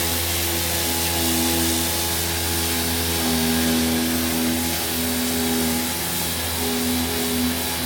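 Power sander running steadily on a car body panel, a constant hiss over a low hum, with soft background music of held notes underneath.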